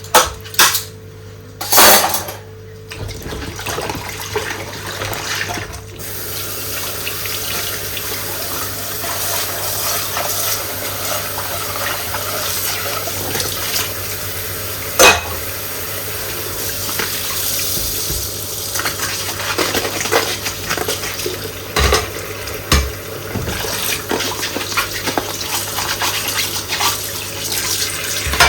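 Dishes being washed by hand at a sink: a few sharp clinks of dishes in the first seconds, then a tap running steadily from about six seconds in, with an occasional clink of a dish against another.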